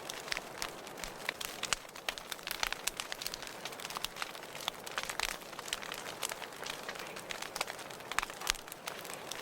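Wood fire burning in a fireplace, crackling with many irregular sharp pops and snaps over a steady soft hiss.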